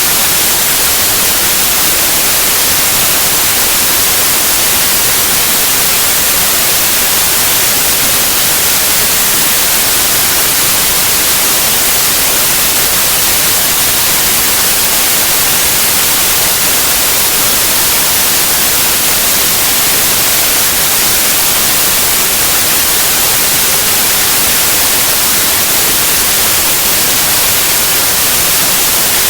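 Steady white noise: an even, hissing static that stays at the same level throughout.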